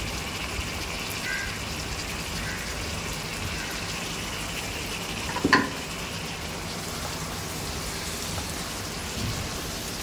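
Prawns and mixed vegetables frying in spiced oil in a wok: a steady sizzle, with one short knock about halfway through.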